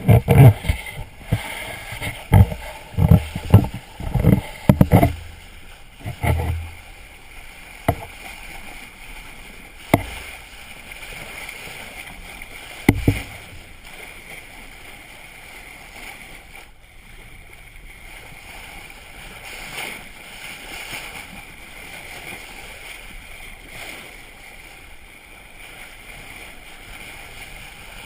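Water washing along a small boat's hull under sail, with a cluster of irregular low thumps in the first six seconds and a couple more later, then a steady wash.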